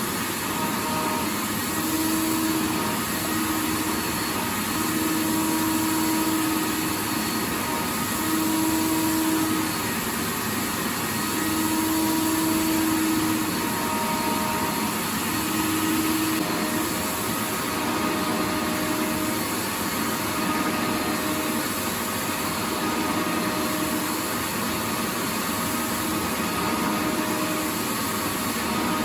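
Vacuum cleaner running steadily: a continuous rush of air with a faint motor hum whose tones fade in and out.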